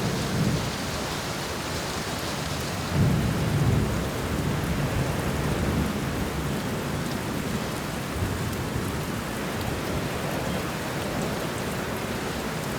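Steady rain pouring down, with low rolling rumbles of thunder; the strongest rumble swells about three seconds in.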